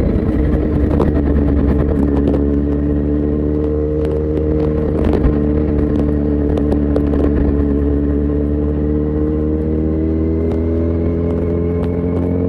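Kawasaki Z900's inline-four engine through an Akrapovic full exhaust system, running at a steady cruise; its pitch drops slightly early on, holds, then begins to rise near the end.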